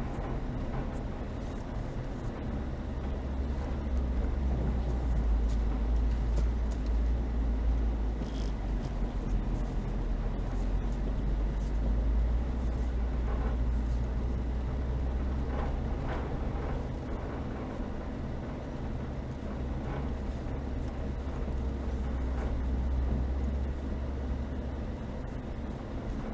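Chevrolet Niva driving in snow, its engine and drivetrain making a steady low drone that grows louder a couple of seconds in and eases off near the end, with scattered short knocks and creaks.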